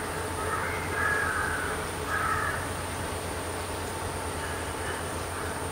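A bird calling three times in the first three seconds, over a steady low hum.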